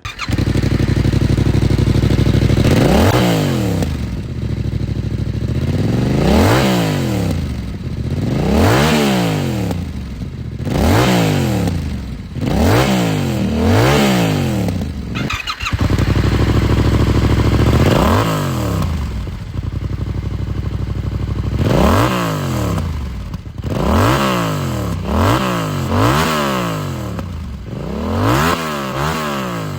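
Yamaha R7's 689 cc parallel-twin engine breathing through a GPR full aftermarket exhaust system, revved again and again, its pitch rising and falling with each blip of the throttle, with a couple of short steady stretches between.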